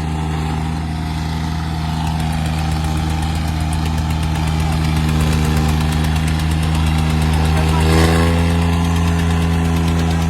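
Tractor diesel engine running at a steady speed, briefly a little louder about eight seconds in.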